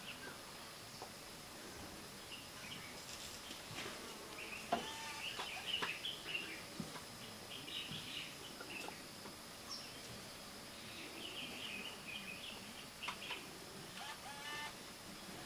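Birds chirping and calling in short scattered bursts over a quiet background, with a couple of sharp clicks.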